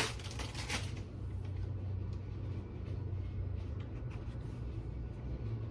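A short noisy rustle in the first second, then a faint, low, steady hum with small handling sounds.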